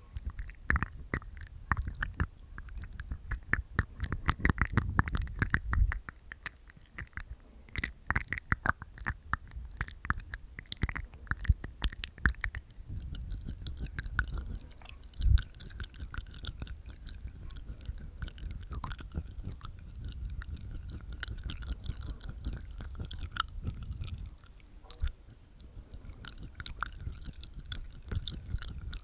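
Close-miked ASMR mouth sounds from inside the mouth: tongue and teeth sounds, a dense, continuous run of small wet clicks.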